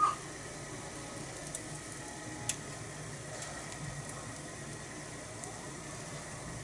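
Okonomiyaki batter and pork sizzling steadily on a thick iron griddle over a small wood fire, with a sharp tick at the very start and a fainter one about two and a half seconds in.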